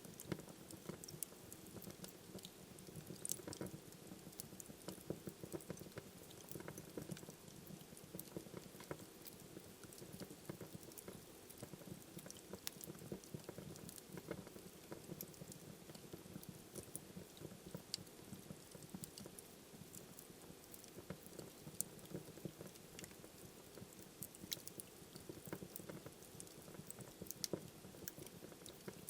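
Fire crackling in a fireplace: frequent small snaps and pops at irregular intervals over a soft, steady background of burning.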